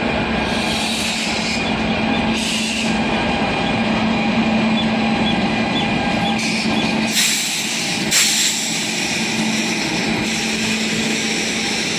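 Express train passing on a far track: a continuous rumble and rattle of wheels on the rails with a steady hum. Two brief louder rushes come about seven and eight seconds in.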